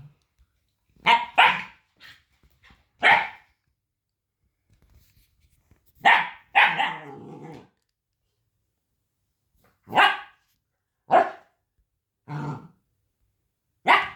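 Husky puppy barking: about eight short, sharp, high-pitched yaps in small groups with pauses between them, one trailing off into a lower, rough growl-like sound.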